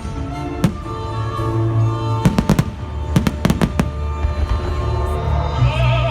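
Fireworks bursting over orchestral music from loudspeakers: sharp bangs come scattered through it, with quick clusters of reports about two and three seconds in.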